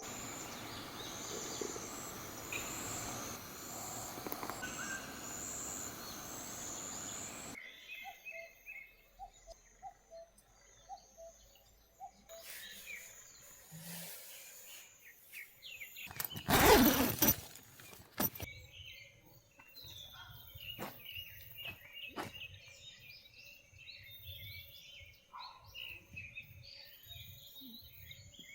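Outdoor nature sounds: insects chirping in a repeating high pulse over a noisy background, then after a sudden cut, birds calling and chirping. About 17 seconds in there is one loud noise lasting just over a second.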